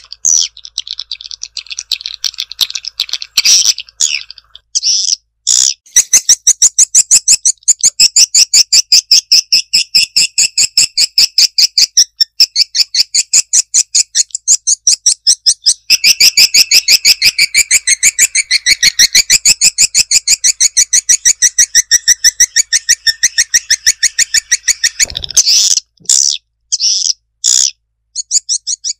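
Swiftlets twittering in a rapid run of high chirps, several a second, with short breaks near the start and near the end. This is a swiftlet-house lure call, the recording played to draw swiftlets in to nest.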